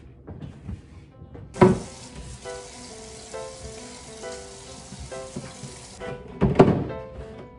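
A steady rush of running water that starts abruptly about a second and a half in and stops abruptly about four and a half seconds later. There is a loud clunk as it starts and another just after it stops, and background music plays throughout.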